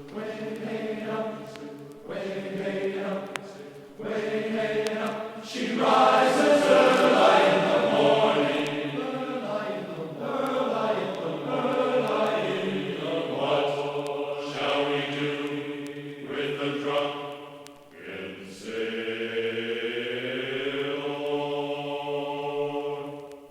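Background music of held, chant-like vocal tones, the notes changing every second or two.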